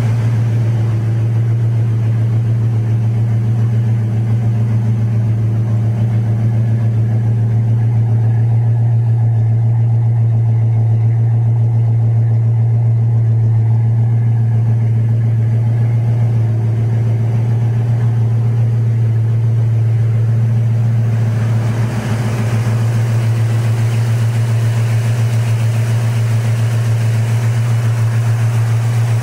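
Chevrolet V8 engine of a customised 1953 Chevrolet idling steadily, a constant low hum. A little more hiss and rattle comes into the sound about three-quarters of the way through.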